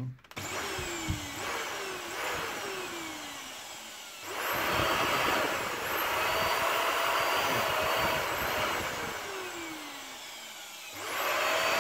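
Fakir Darky 1600 vacuum cleaner motor running in uneven surges, its pitch repeatedly falling away and picking up again. The motor is cutting in and out through a loose contact, which the owner takes for a broken wire in the cord at its base.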